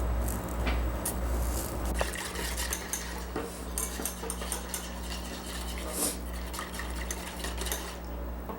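A utensil stirring a thin, oily sauce in a bowl, with irregular clinks and scrapes against the bowl, over a steady low electrical hum.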